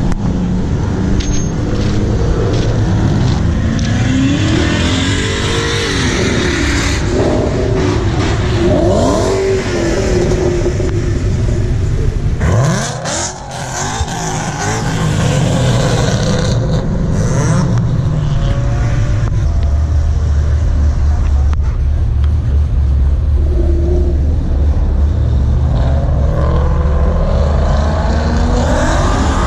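Car engine running with the revs rising and falling, a brief drop about halfway through, then a steady low drone that climbs again near the end.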